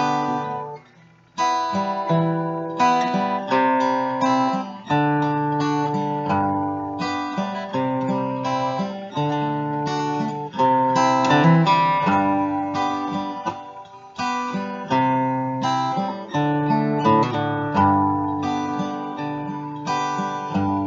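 Acoustic guitar played alone in an instrumental break of a gospel song, strummed chords with single notes picked between them. The playing briefly drops out about a second in.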